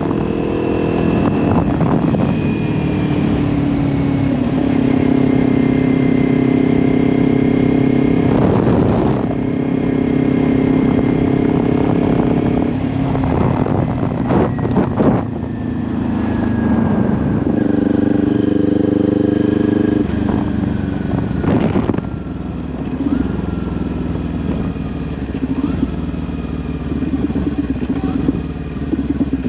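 2022 Kawasaki Ninja 400's parallel-twin engine running through an SC Project aftermarket exhaust while riding, its steady note broken briefly several times by gear changes. In the last several seconds it settles to a lower, quieter note.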